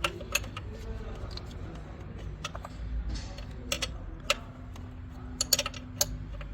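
Sharp metallic clicks and clinks of hand tools on engine parts, a dozen or so at irregular intervals, over a faint steady hum.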